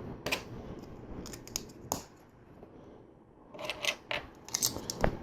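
Small LEGO plastic pieces being handled: scattered light clicks and taps, a quiet spell in the middle, then a cluster of clicks near the end.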